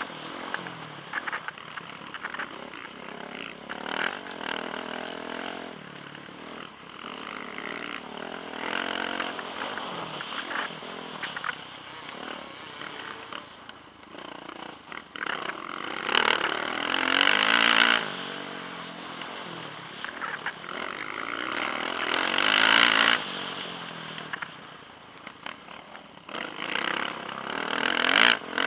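Motocross bike engine revving hard and easing off over and over as the rider races, heard from a helmet camera with wind and rattle on the microphone. The two loudest high-rev pulls come past the halfway point.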